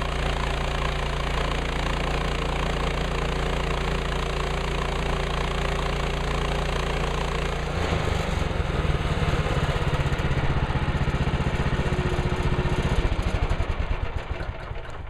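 Gas engine of a portable bandsaw sawmill running steadily; about eight seconds in its note changes and it runs louder and rougher, then drops away near the end.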